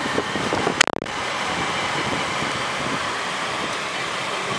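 Automatic car wash running: a steady rushing noise of water spray, with one sharp click about a second in.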